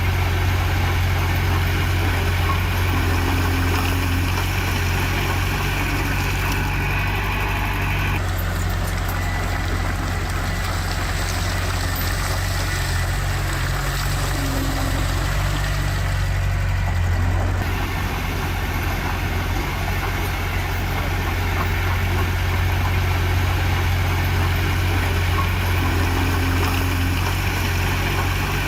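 Heavy diesel engine of earthmoving machinery running steadily at low revs, a continuous low drone.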